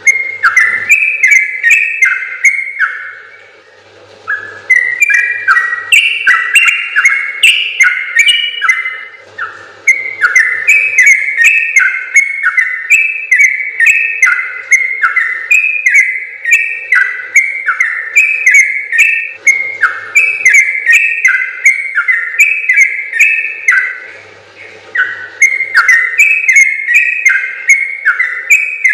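Yellow-vented bulbul (trucukan) singing long, rapid chattering phrases of quick stepped whistled notes, with a few short breaks between runs.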